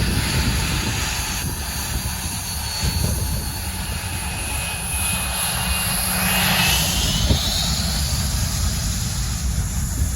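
Airliner's engines passing close by: a low rumble under a high whine that sweeps in pitch about six to seven seconds in.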